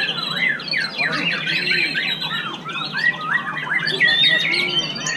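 White-rumped shama (murai batu) singing a fast, varied song of quick whistled sweeps and chattering notes.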